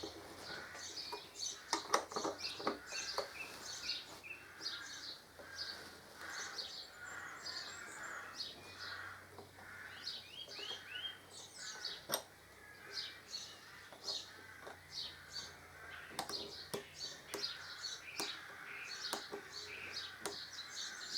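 Small birds chirping and twittering continuously, with a few sharp clicks from hand tools on the windscreen bolts and brackets.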